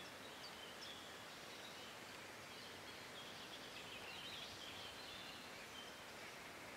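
Faint, even background hiss with small birds chirping faintly and high, busiest around the middle.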